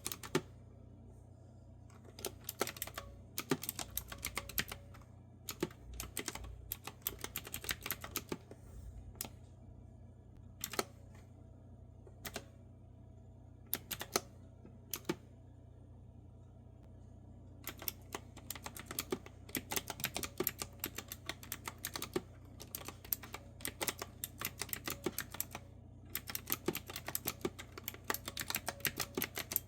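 Clicky retro-style keyboard with round keys being typed on: runs of quick keystrokes broken by pauses of a second or two. A steady low hum runs underneath.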